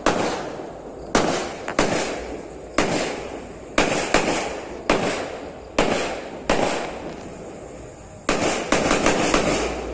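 Fireworks bursting: a series of sharp bangs, each trailing off, about one a second, then a rapid cluster of bangs near the end.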